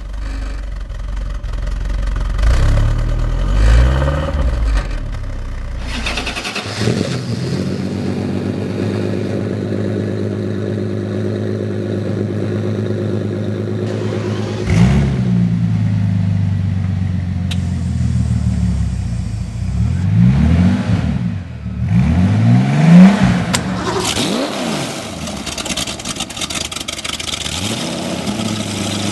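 Car engine idling steadily and blipped in a series of short revs that rise and fall in pitch: a few a couple of seconds in, one about halfway, a quick cluster of several after that, the loudest among them, and more near the end.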